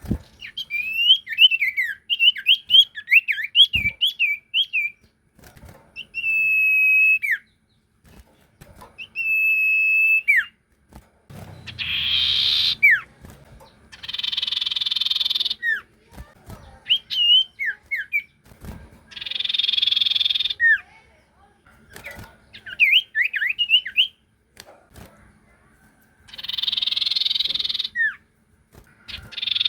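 A sirtu songbird singing hard, as in a lure-call recording: quick chirpy whistled phrases, two clear held whistles, then repeated harsh rasping calls each ending in a short falling note.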